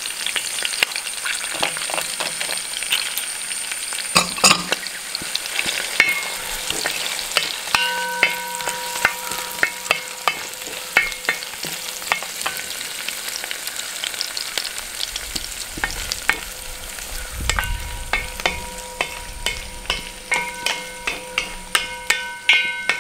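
Shallots, drumstick and okra sizzling as they fry in coconut oil in a brass uruli, with a wooden spatula scraping and knocking against the brass as they are stirred.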